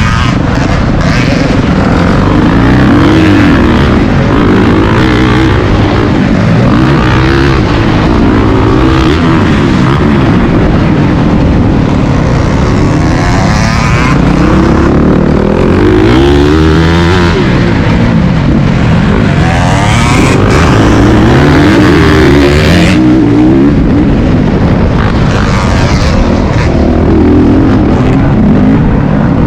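Motocross bike engine under hard riding, revving up and dropping off again and again, its pitch rising and falling every few seconds. Loud and close throughout.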